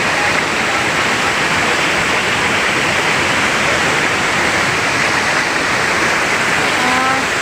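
Waterfall pouring onto rocks, a loud steady rush of falling water.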